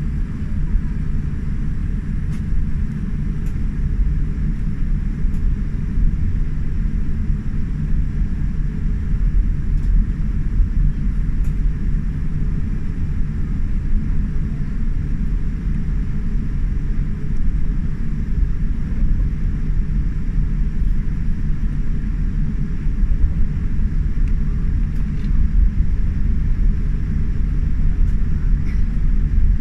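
Steady, loud low rumble of a Boeing 787 Dreamliner's jet engines and airflow, heard from inside the passenger cabin.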